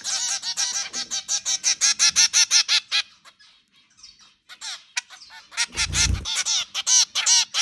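Zebra finches giving rapid, short, nasal beeping calls, several a second, which pause for about a second and a half midway and then resume. A low thud sounds about six seconds in.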